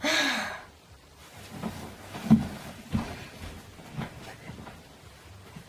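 A short breathy vocal sound, like a sigh, then a few scattered soft knocks in a small room.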